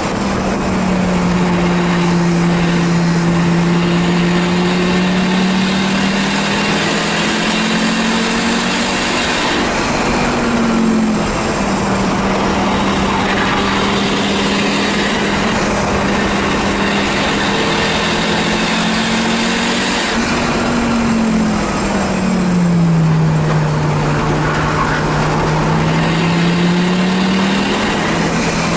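Engine of a stripped 1984 Audi 4000 race car running hard on track, heard inside the bare cabin with wind and road noise. Its pitch holds steady for long stretches, then dips and climbs again three times as the car shifts and takes corners.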